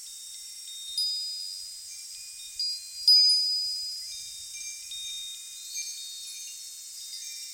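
Wind chimes ringing, with many high metal tones struck at irregular moments and ringing out; the loudest strikes come about one second and three seconds in.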